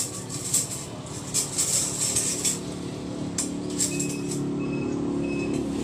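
Clinks and clatter of dishes and utensils being handled. About halfway through, a low steady hum comes up, with a short high beep repeating about twice a second.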